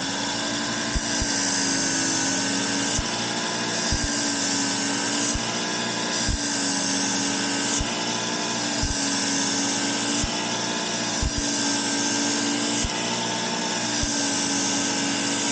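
Work Sharp belt sharpener switching on abruptly and running steadily on its coarse grinding belt while a broadhead is stroked across the belt to grind its edges.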